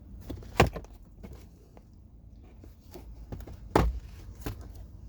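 Plastic clicks and knocks of a 2019 Toyota RAV4 glove box being pushed in and let down to reach the cabin filter: two sharp knocks about three seconds apart, among lighter clicks.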